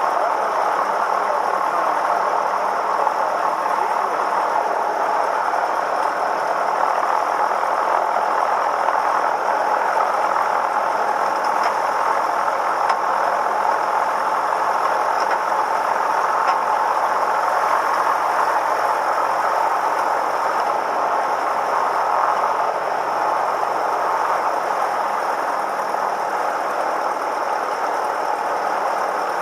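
Cessna 172M's four-cylinder Lycoming piston engine running steadily at low power, a constant drone with no change in speed.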